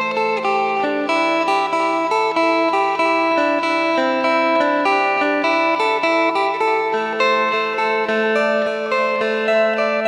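Electric phin, the Thai Isan lute, played: a quick run of plucked melody notes over a steady drone string.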